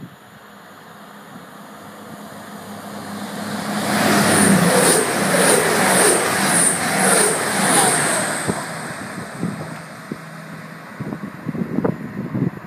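Diesel express passenger train passing at speed along the platform. It builds as it approaches, is loudest for about four seconds while the coaches go by with a regular high ticking about twice a second over a steady engine hum, then fades as it recedes.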